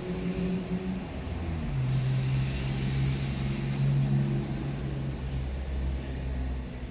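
A motor vehicle engine running steadily: a low hum whose tone steps down in pitch about two seconds in and fades near the end.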